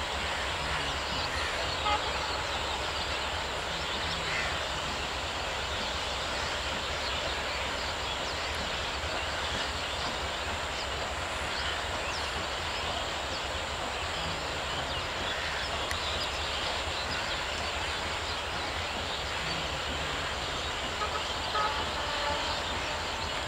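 Passenger train rolling slowly over the tracks: a steady, even rumble and hiss with no clear wheel rhythm.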